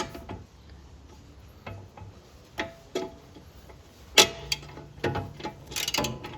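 Ratchet clicking and hand tools clinking on the bolts of an aluminum A-arm guard: a few scattered sharp metallic clicks, some ringing briefly, the loudest about four seconds in.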